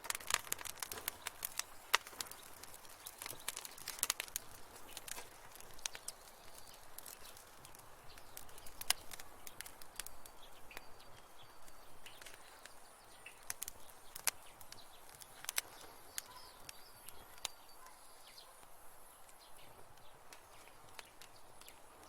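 Wood fire crackling in a fireplace: irregular sharp pops and snaps over a soft hiss, busiest in the first few seconds.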